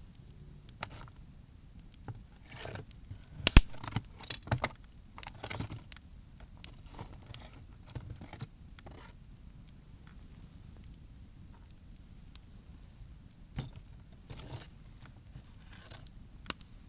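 Wood bonfire crackling and popping irregularly, with a busy run of cracks a few seconds in that includes one loud sharp pop, and a smaller burst of crackling later on.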